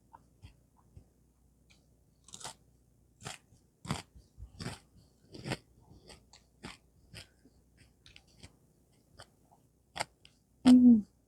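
Close-up mouth sounds of someone eating rice with sambal and side dishes: irregular wet smacks and crunches of chewing. Near the end the eater gives a short, loud hummed "mm".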